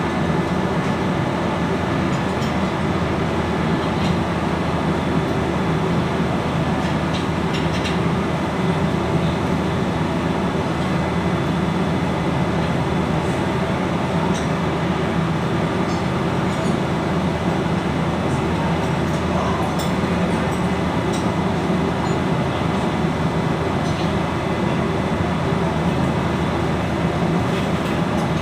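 Loud, steady machinery drone with a few faint metallic clicks.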